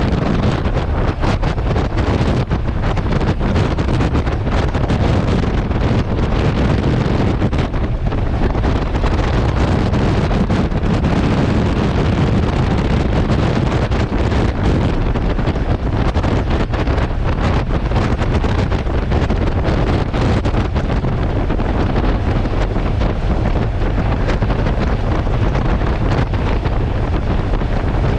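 Loud, steady wind buffeting on a GoPro 8 Black's built-in microphone on a moving Honda NC750X motorcycle, a dense low rumble with no let-up. It is recorded with no external mic or Media Mod wind protection.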